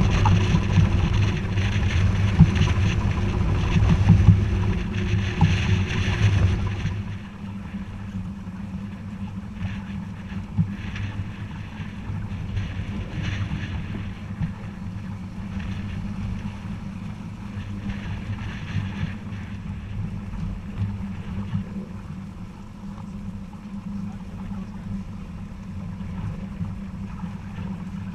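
Wind buffeting the microphone aboard a sailboat under way, over a steady rush of wind and water. The loud wind noise drops away suddenly about seven seconds in, leaving a quieter, steady rush with a low hum.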